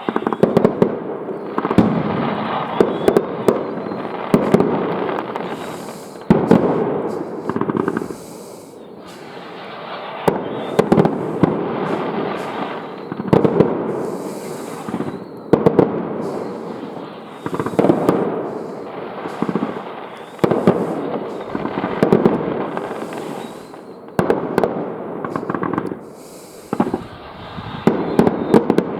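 Fireworks going off one after another: many loud bangs and crackles, with short rushes of hiss every few seconds.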